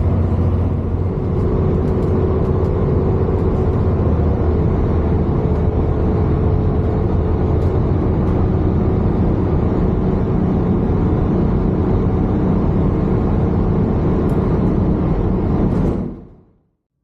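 Cabin noise inside a Class 221 diesel tilting train running along: a steady rumble with a held hum, fading out near the end.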